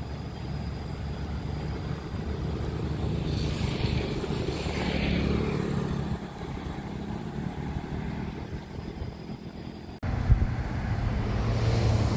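Diesel train engine running low and steady as a train goes by, growing louder toward the middle; about ten seconds in the sound cuts abruptly to another low engine hum.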